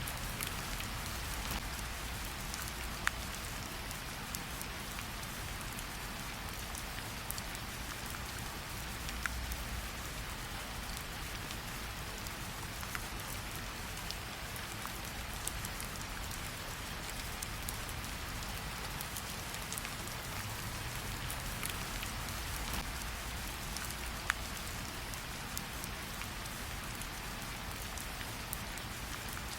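Steady rain hiss mixed with a wood fire, whose few sharp crackles stand out now and then.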